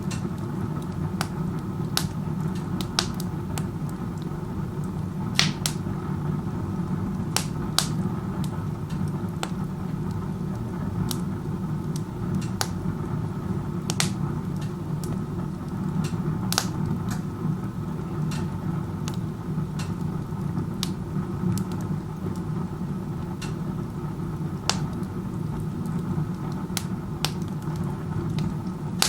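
Wood stove burning with its door open like a fireplace: a steady low rush of air drawn up the chimney, with irregular sharp crackles and pops from the burning wood about once or twice a second. The draw is very strong, which the uploader takes as a sign of poor combustion efficiency.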